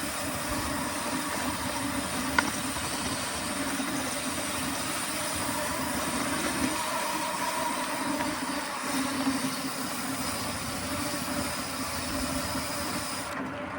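Mountain bike riding noise picked up by the rider's own camera: a steady rolling rumble from the tyres and bike, with one sharp click about two and a half seconds in.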